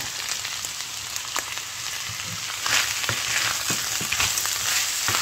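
Minced beef frying in a pan, sizzling steadily as frozen mixed vegetables are tipped in; the sizzle grows louder a little past halfway, with a few light knocks.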